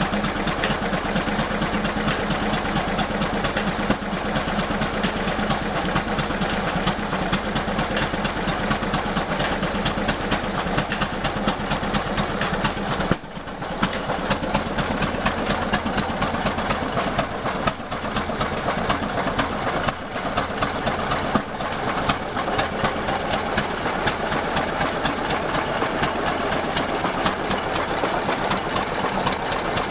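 Case 20-40 gas tractor's opposed twin-cylinder engine running steadily, with rapid, even firing beats. The sound dips briefly about 13 seconds in, then carries on unchanged.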